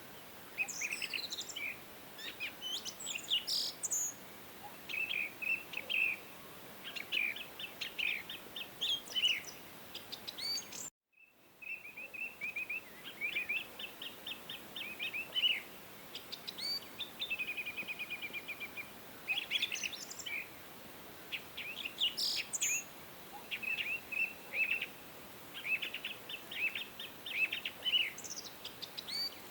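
Several songbirds singing and chirping over a steady background hiss: rapid trills and quick whistled notes that slide up and down in pitch. The sound cuts out for a moment about eleven seconds in, then the song resumes.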